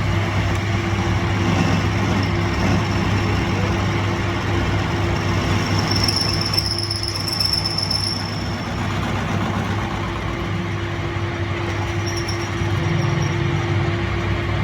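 A workshop machine running steadily with a low hum, with a high-pitched squeal rising over it for about two seconds midway and briefly again near the end.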